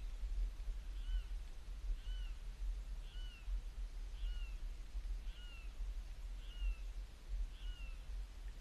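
A bird calling a short falling note about once a second, eight times in a row, over a steady low rumble.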